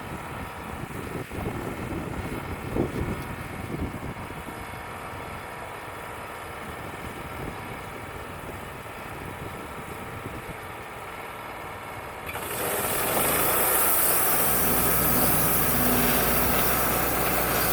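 Wood-Mizer LT35 band sawmill running, its engine steady with wind buffeting the microphone; about 12 seconds in the band saw blade enters the poplar log and a louder, steady hiss of the cut takes over.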